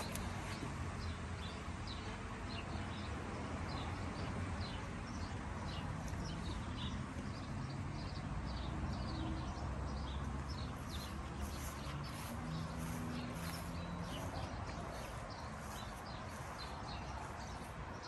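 Small birds chirping repeatedly in short, quick notes over a steady low rumble.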